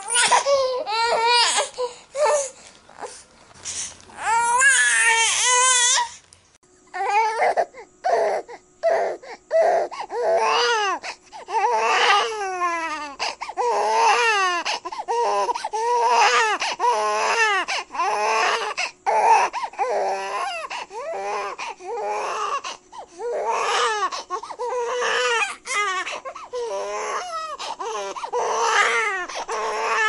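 Baby crying in repeated rising-and-falling wails. About six seconds in, one recording gives way to another, where the cries come in quick short bursts over a faint steady hum.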